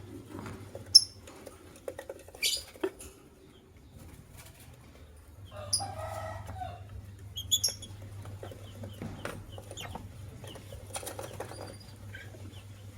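Lovebirds giving a few short, sharp, high chirps, the loudest about a second in, with a lower, harsher call around the middle and some scattered clicks and rustling from wings or the cage. A steady low hum runs underneath.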